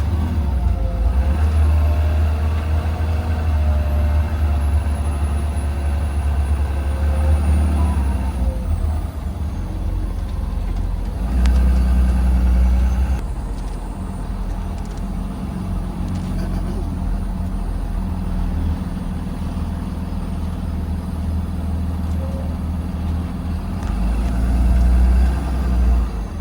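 2020 Blue Bird Vision school bus heard from inside while driving: a steady low engine rumble with road noise. It swells briefly about eleven seconds in and again near the end.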